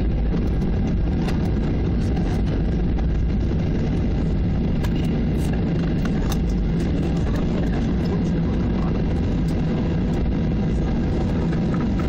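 Cabin noise inside a Boeing 737-800 rolling on the ground after landing: a steady low rumble of its jet engines and airframe, with a few light clicks and rattles.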